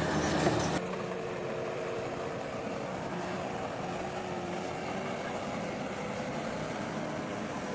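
Bulldozer's diesel engine running steadily with a constant drone. A louder, harsher stretch of machine noise cuts off abruptly less than a second in.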